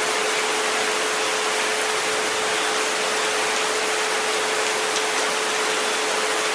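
Steady rain hiss with a single pure tone held underneath, an unchanging 'healing frequency' sine tone mixed in for sleep. A few faint drip ticks sound now and then.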